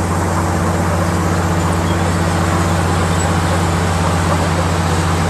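Komatsu D65PX bulldozer's diesel engine running at a steady speed, with a constant low hum and no change in pitch or load.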